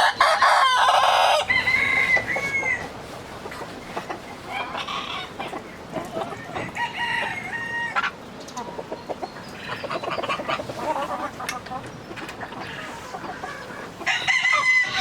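Chickens clucking and calling, with a rooster crowing loudly at the start and again near the end.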